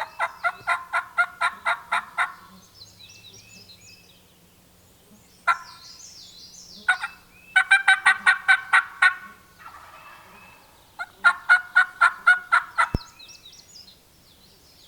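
Wild turkey gobbling: three loud, rapid rattling series of notes, with a short single note between and songbirds chirping faintly in the gaps.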